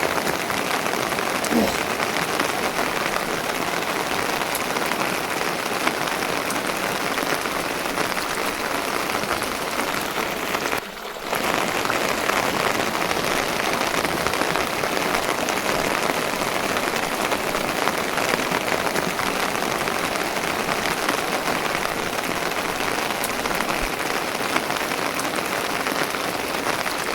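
Steady rain pattering on a surface, a dense even hiss with fine crackle. It briefly dips about eleven seconds in.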